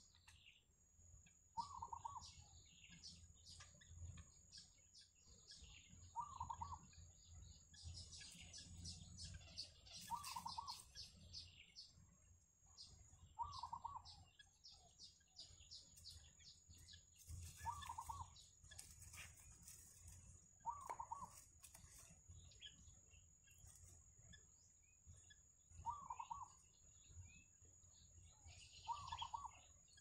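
Faint wild bird calls: a short low call repeated about every three to four seconds, over rapid high chirping and a thin steady high-pitched tone.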